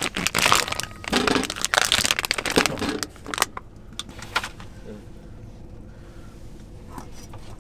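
Packaging being handled, crinkling and rustling with sharp clicks for about three seconds, then settling to a low steady background.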